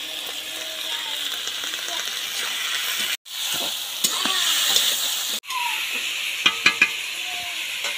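Pieces of goat skin frying and sizzling in oil in a steel wok while being stirred with a metal spatula. About three-quarters of the way in come three sharp metallic clicks of the spatula against the pan.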